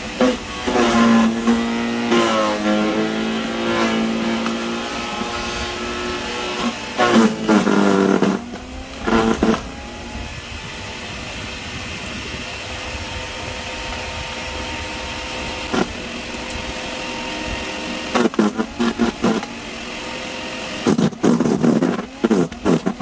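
Sun Joe CJ601E 14-amp electric wood chipper running with a steady hum, its motor pitch dropping under load as branches are fed in, with loud crackling bursts of wood being chipped several times.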